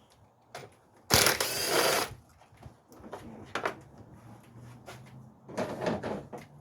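Hand work at a car battery under the hood: a second-long burst of scraping and rustling about a second in, then scattered clicks and knocks and another short scrape near the end.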